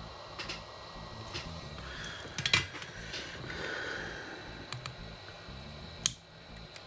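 Sharp small clicks and taps of hand tools working on a circuit board over a low steady hiss, the loudest click about two and a half seconds in and another near the end.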